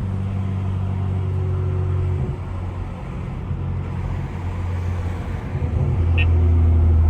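BMW N55 turbocharged inline-six with a straight-piped exhaust, a steady low drone at low revs while driving; it grows louder about six seconds in. Two short high tones sound about a second and a half apart near the end.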